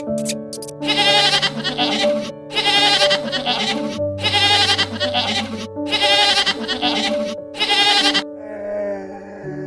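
Background music with an animal calling five times over it, each call about a second and a half long with a wavering pitch, evenly spaced. The calls stop about a second before the end, leaving only the music.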